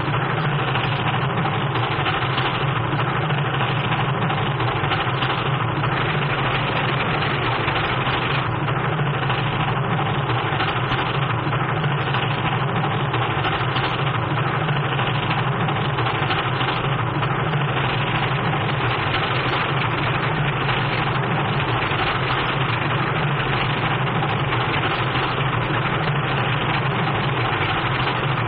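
Steam train running steadily: a continuous mechanical rumble and rhythmic clatter that does not let up.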